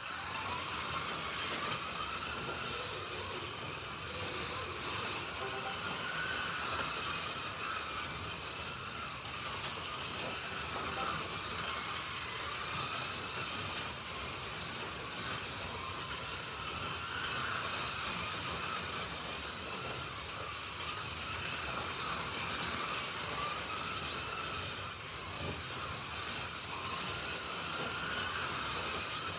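Slot.it slot cars (Alfa Romeo T33s and a McLaren M8D) lapping a track, their small electric motors whining steadily, the pitch rising and falling over and over as they accelerate and brake through the lap.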